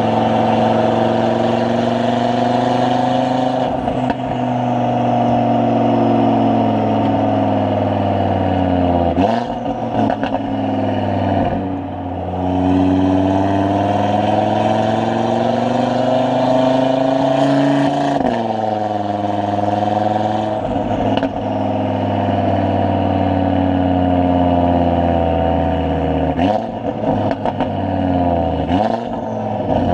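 Tuned Audi RS3 2.5-litre turbocharged five-cylinder with a catless downpipe and sport exhaust, being driven through the gears. The engine note climbs and falls in pitch several times, with short sharp cracks at several of the drops.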